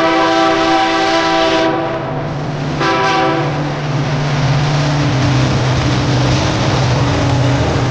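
Train horn sounding a long chord that stops about 1.7 s in, then a short second blast about 3 s in. After that comes the steady low drone and rumble of the passing train.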